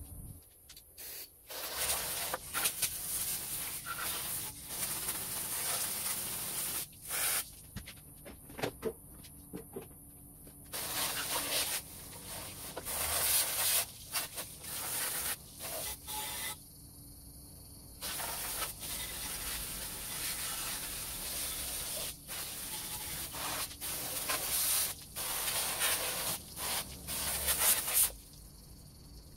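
Aerosol spray can hissing in repeated bursts of a second to several seconds, with short gaps between them.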